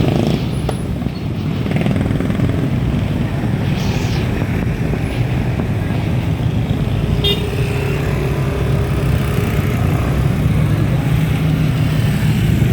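Steady low rumble of riding along a road with motor traffic, with a brief high toot about seven seconds in.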